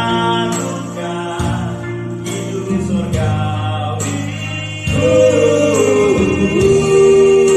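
Vocal group singing a gospel song over instrumental accompaniment, with held notes that swell louder about five seconds in.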